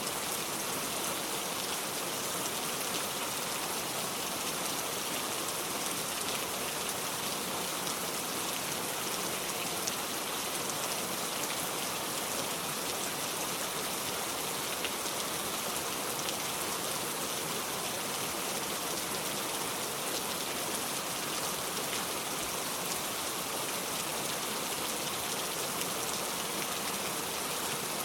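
Steady rainfall: an even hiss of rain with small scattered drop ticks, unchanging throughout.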